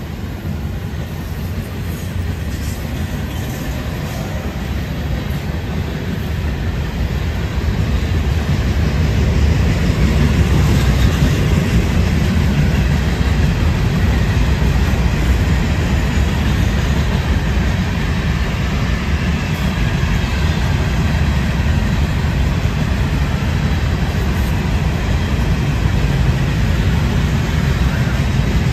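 Two freight trains' cars rolling past on the rails at a meet, a manifest of boxcars and hoppers alongside a double-stack intermodal, making a steady rolling rumble of wheels on track. It grows louder over the first ten seconds or so, then holds steady.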